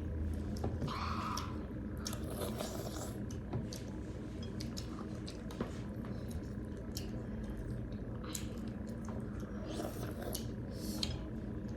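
Close-miked eating sounds: wet, squishy sounds of dal and rice being eaten and chewed, with many small clicks and smacks scattered throughout.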